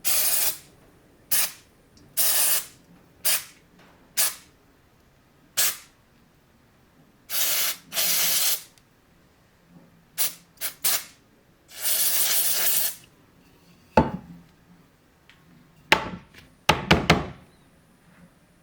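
Aerosol carburettor cleaner sprayed in short bursts into an opened ball bearing to flush out its packed grease, hissing on and off about a dozen times, some bursts brief and some about a second long. A few sharp knocks come near the end.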